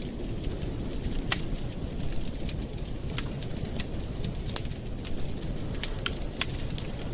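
Campfire burning, with a steady low rumble under sharp, irregular crackles and pops from the burning wood.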